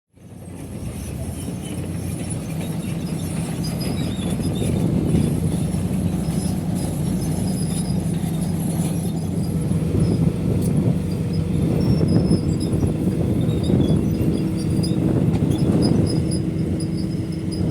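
Diesel engine of heavy earthmoving machinery running steadily under load, a low drone with short high squeaks over it. The sound fades in at the start.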